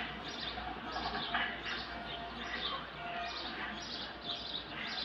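Birds chirping in short repeated bursts, about two a second, over a low steady hum.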